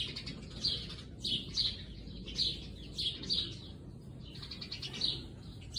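A bird chirping over and over, short high chirps following one another at an uneven pace of roughly two a second.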